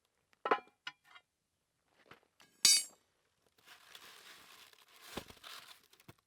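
A few light knocks, then a single bright ringing clink of hard objects about two and a half seconds in, followed by a few seconds of soft rustling hiss.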